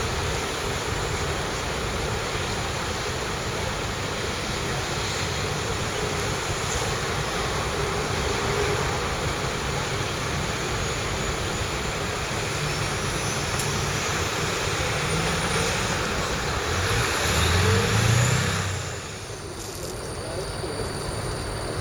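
Train running along the platform: a steady rumble and rush of wheels and motors, with faint high wheel squeals toward the end, cutting off sharply near the end.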